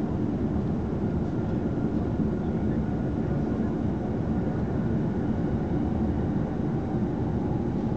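Steady running noise of a moving passenger train heard inside the carriage: a low even rumble of wheels on rail, with a faint thin whine through the middle.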